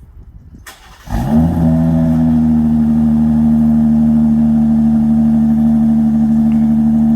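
Jeep Grand Cherokee Limited X's 3.6-litre V6 starting cold in sub-freezing weather. It catches about a second in with a quick rising flare, then settles into a loud, steady idle.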